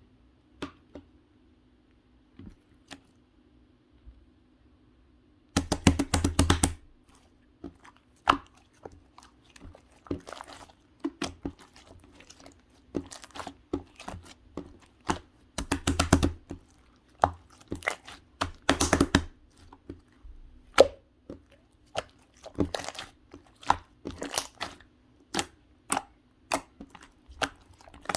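Slime being squeezed and pressed by hand, giving sharp crackling pops and clicks. After a few seconds of near quiet with only odd clicks, it comes in quick dense clusters with scattered single pops between, over a faint steady hum.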